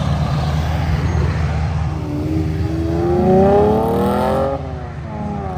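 A car's engine under hard acceleration, revs climbing steadily, then dropping sharply about four and a half seconds in at a gear change and climbing again.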